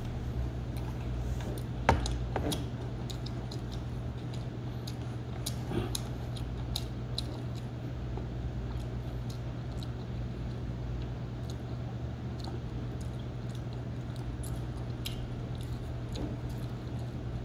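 Close-up chewing and mouth sounds of someone eating pizza: many small, crisp clicks and smacks scattered through, over a steady low hum. A single sharp knock comes about two seconds in.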